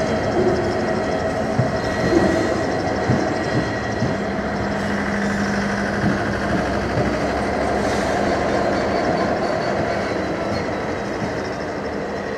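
Class 66 diesel locomotives, with their two-stroke V12 engines running, pass slowly with the wagons of a Rail Head Treatment Train while pushing a heavy loaded oil tank train from the rear. Wheels knock irregularly over the rails.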